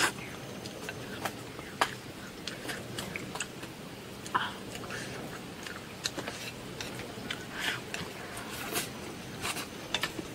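A person eating spicy dry-pot duck head with rice: chewing and biting, with many short, sharp clicks scattered throughout.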